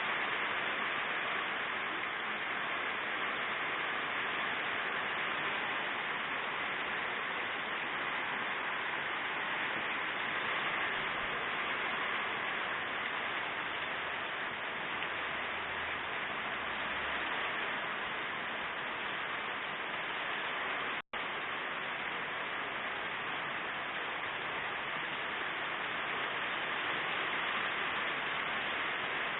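Heavy rain pouring down in a storm: a steady, dense hiss that cuts out for an instant about two-thirds of the way through.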